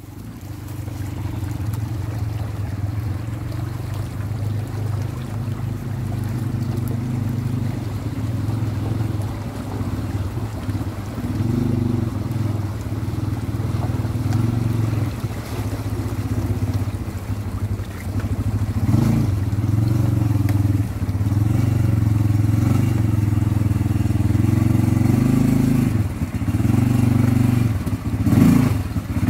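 ATV engine running steadily, its revs rising and falling several times as it is driven off-road.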